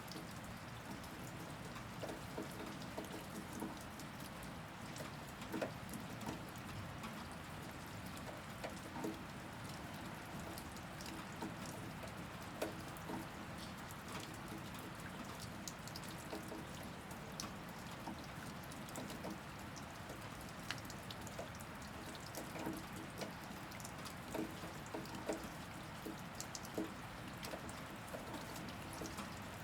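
Steady rain falling, with many individual drops and drips landing as scattered sharp ticks over an even hiss.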